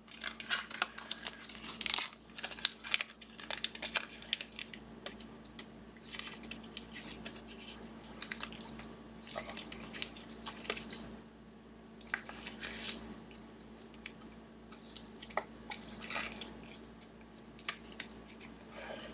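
Trading cards and their plastic or foil packaging being handled: irregular crinkling, rustling and small clicks, over a faint steady low hum.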